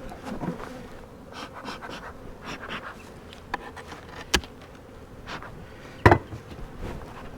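Honeybees buzzing around an open hive, with a sharp click about four seconds in and a louder knock about six seconds in.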